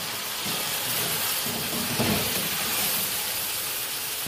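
Chicken pieces and green peas frying in oil in a pot, giving a steady sizzle, while a wooden spoon stirs through them.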